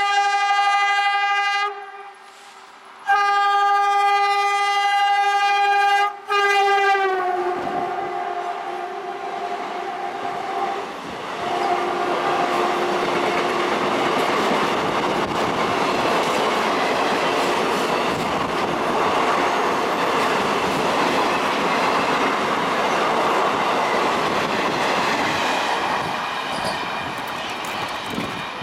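Horn of an Indian Railways WDG-3A diesel locomotive honking three times: a short blast, a longer one, and a last one that drops in pitch as the locomotive passes. Then the coaches of the express roll past in a steady rumble, wheels clattering over the rail joints.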